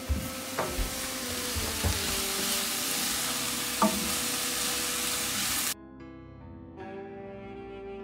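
Sautéed vegetables (leek, carrot, onion, garlic, celery) sizzling in oil in a frying pan, still cooking and not yet done, with a few light knocks. The sizzle cuts off suddenly about six seconds in, leaving soft background music.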